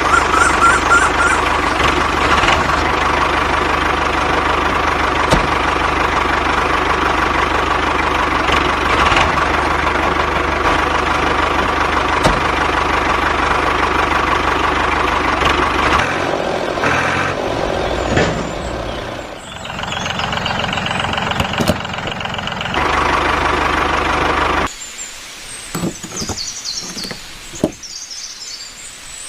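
Motor of a DIY mini tractor with a rotavator running steadily with a high whine; the sound changes and dips about two-thirds of the way through, then cuts off suddenly near the end.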